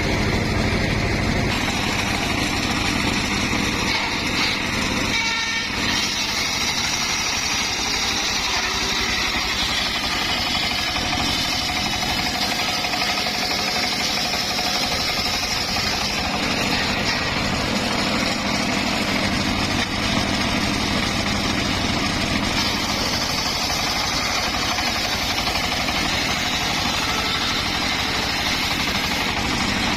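Circular sawmill running steadily: a constant machine drone with a steady low hum and a band of high noise above it.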